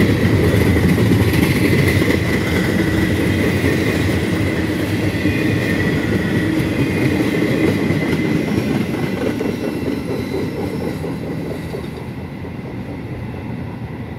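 Empty intermodal well cars and flatcars of a freight train rolling past, their wheels clattering on the rails, with a thin steady squeal through the first half. The sound fades as the end of the train goes by.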